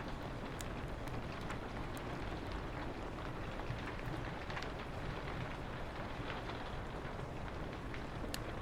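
Steady rain hiss on a window, with scattered sharp crackles and pops of a wood fire every second or so.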